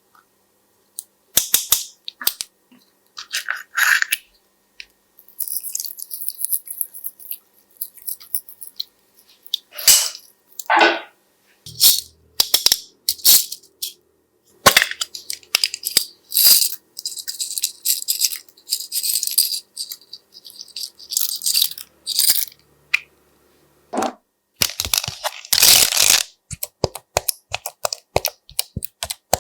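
Slime being squished and mixed by hand: irregular sticky crackles, pops and clicks, with bursts of hissy squelching and short silent gaps between them.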